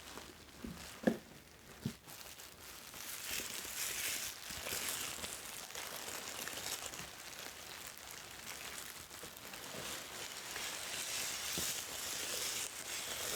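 Bubble wrap being handled and crinkled: a continuous crackly rustle from about two seconds in, after a few short knocks at the start.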